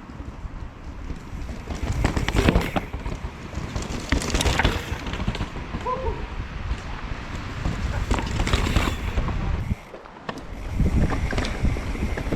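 Mountain bike clattering and rattling over a rocky trail at speed, with irregular knocks from the wheels and frame striking rock and wind buffeting the microphone. It eases briefly near the end.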